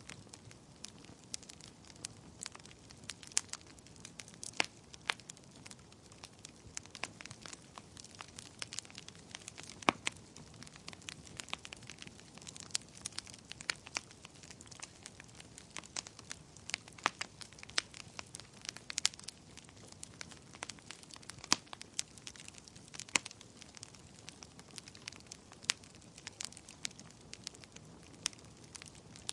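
Wood fire crackling: irregular sharp pops and snaps, several a second and some louder than others, over a soft low rumble of burning.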